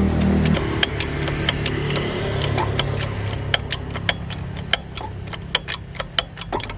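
Workshop sounds: irregular sharp metallic clicks and clinks, several a second and busier toward the end, over a steady low mechanical hum.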